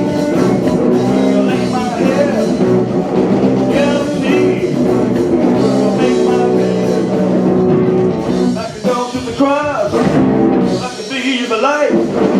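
A band playing a blues-rock style praise song with a singer's voice over held guitar chords and drums.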